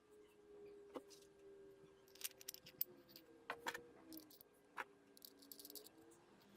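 Faint, scattered clicks and light taps of small hard objects, in short clusters, over a faint low hum.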